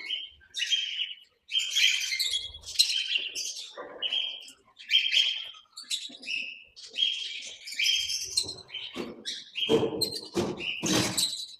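Parrots in an aviary chirping and chattering, many short calls one after another, with a few harsher, deeper squawks about nine to eleven seconds in.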